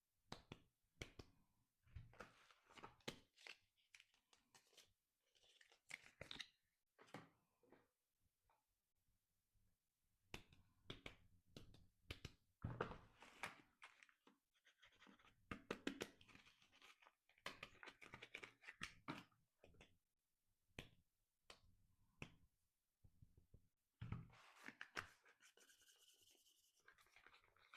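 Soap packaging being handled and opened by hand: crinkling, rustling and tearing of the wrapper with small clicks and taps, in short irregular spells with brief pauses between.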